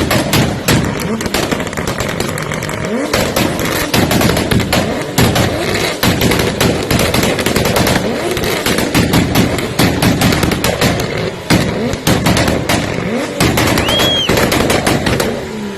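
Loud car exhaust being revved over and over, its pitch rising and falling with each blip, with rapid popping and crackling throughout.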